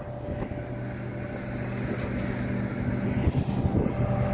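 Diesel passenger train passing along the tracks below, its engine giving a steady low hum that grows slightly louder after about a second.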